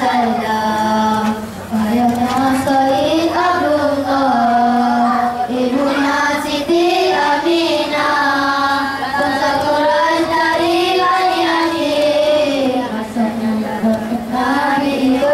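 Young boys singing a devotional Islamic song (nasyid) in unison, with long held notes that slide smoothly from pitch to pitch.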